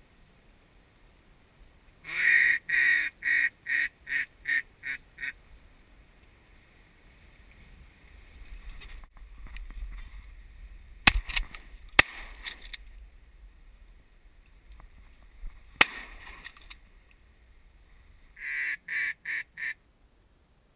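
A mallard duck call blown in a descending run of about eight quacks that fade as they go, the hen-mallard hail call used to turn passing ducks toward the decoys, with a shorter run near the end. In between come three sharp shotgun shots, two a second apart and a third about four seconds later.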